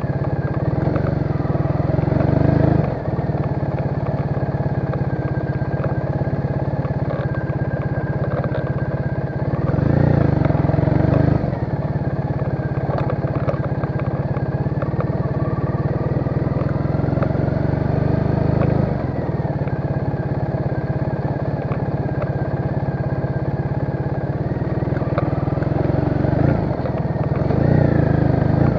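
Triumph Bonneville's parallel-twin engine running as the motorcycle is ridden slowly, its note rising briefly three times with the throttle.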